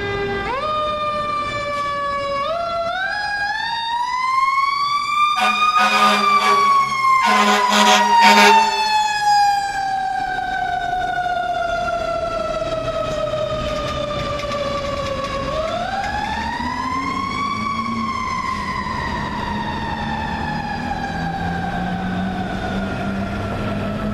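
Federal Q mechanical siren on a fire engine winding up to a high wail, coasting slowly down, then winding up and coasting down again. Several air horn blasts about five to eight seconds in are the loudest sounds.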